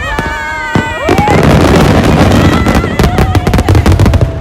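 Aerial fireworks in a dense barrage: from about a second in, crackling and banging bursts come thick and fast, after a few high wavering whistles at the start.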